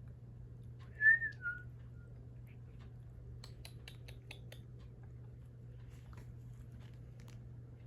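A short whistled call about a second in, two notes stepping down in pitch, followed by a faint brief note. A quick run of about six faint clicks comes in the middle, over a steady low hum.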